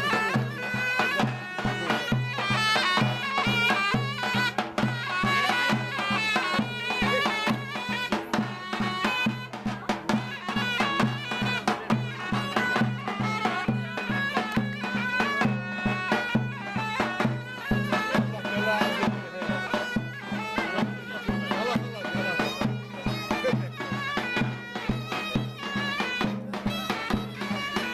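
Turkish folk dance music on zurna and davul: a shrill double-reed shawm plays a fast, heavily ornamented melody over a steady drone and regular drum beats.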